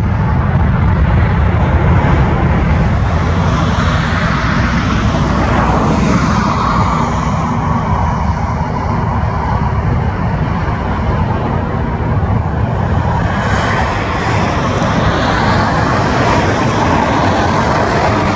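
Airbus A350-941 airliner's Rolls-Royce Trent XWB turbofans: loud, steady jet noise whose hiss sweeps in pitch as the aircraft moves past.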